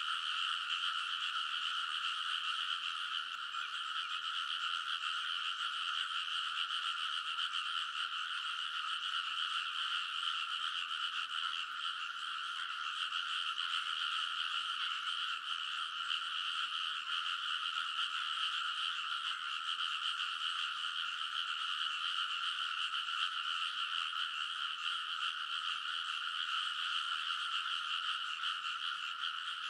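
A loud chorus of many frogs croaking at once, a dense, unbroken din that holds steady with no pauses.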